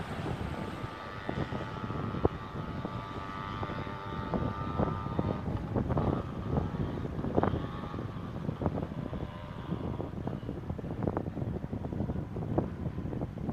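Diesel train pulling away, its engine drone and rumble fading over the first half. After that a low rumble stays, with wind buffeting the microphone.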